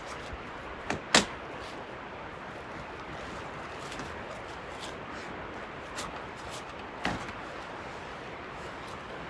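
Bicycle rolling along a gravel rail trail: steady tyre and wind noise with a few sharp knocks and rattles, the loudest about a second in.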